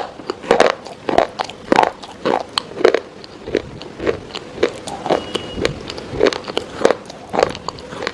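Crunchy food being bitten and chewed in a steady run of short crunches, about one every half second.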